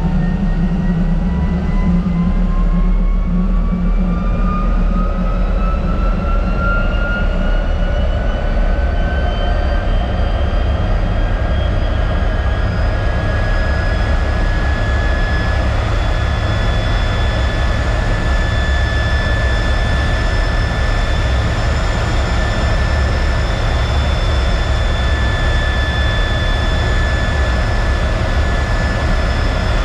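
Single Allison J33 turbojet of a T-33 jet trainer spooling up: a whine rising in pitch over about the first fifteen seconds, then holding steady over a low rumble.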